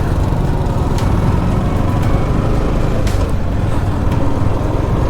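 Motorcycle running steadily at riding speed, its engine hum buried in heavy road and wind noise.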